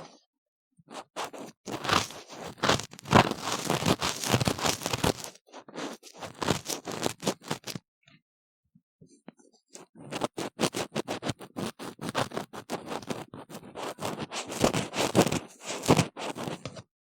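An ear-cleaning tool scrapes and scratches firmly inside a silicone ear model, heard close up, in quick bursts of rough, crackly strokes. A short pause falls about halfway through.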